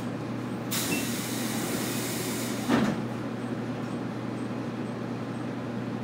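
Inside an 811 series electric train car standing at a station: a steady low hum from the car's equipment, a burst of compressed-air hiss lasting about two seconds from just under a second in, then a single loud thud.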